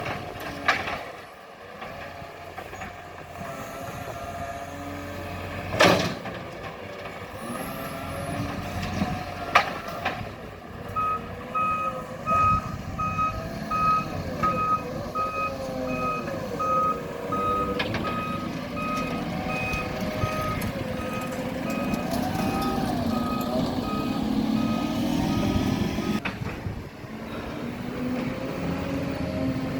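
Garbage truck engine running and changing pitch, with a few sharp cracks in the first ten seconds, the loudest about six seconds in. From about eleven seconds in, the truck's reversing alarm beeps steadily at a single pitch, roughly two beeps a second, and stops a few seconds before the end.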